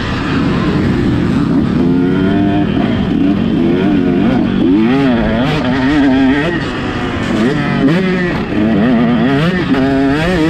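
Motocross bike engine revving hard and dropping back again and again as it is ridden around the track, its pitch swinging up and down every second or so.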